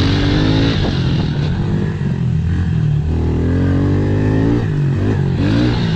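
Pit bike engines running: a steady low engine note throughout, with one bike revving, its pitch climbing for about a second and a half around the middle and then dropping off.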